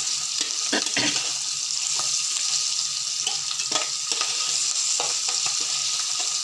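Chopped onions, green chillies and curry leaves sizzling in hot oil in a pan as they sauté, stirred with a spatula that scrapes and knocks against the pan now and then.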